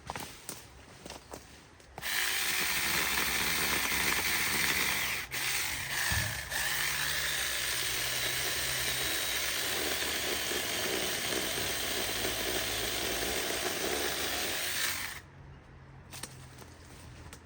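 A chainsaw running and cutting, starting suddenly about two seconds in and stopping suddenly near the end after about thirteen seconds of steady sawing.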